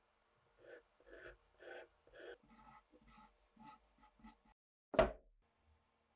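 Hand work on rifle parts: a run of short rubbing or scraping strokes, about two a second, then one sharp, louder click about five seconds in.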